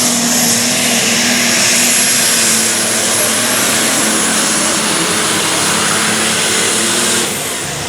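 Super stock pulling tractor's multi-turbocharged engine running flat out under load, a dense steady roar with a high turbo scream, dropping away sharply near the end as the pull ends.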